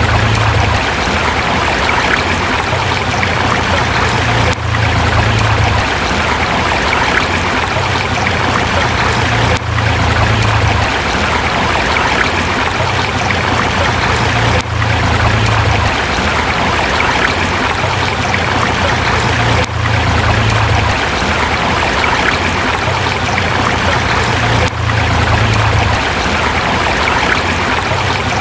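A river rushing steadily over rocks, with a brief dip in level about every five seconds.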